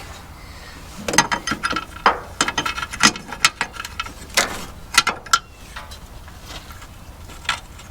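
Irregular sharp metallic clicks and clinks of a hand wrench working a fastener on truck parts, clustered from about a second in to around five and a half seconds, with a lone click near the end.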